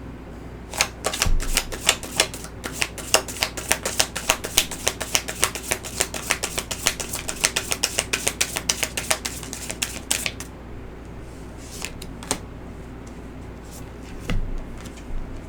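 A deck of oracle cards being shuffled: a rapid run of card clicks, several a second, for about nine seconds, then a few single card taps near the end as cards are handled.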